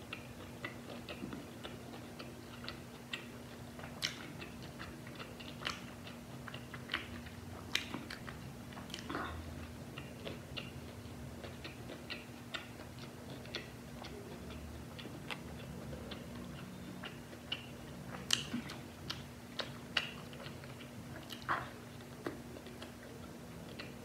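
Close-miked chewing of a crispy fried chicken burger: soft mouth sounds broken by scattered sharp crunches and clicks, over a faint steady low hum.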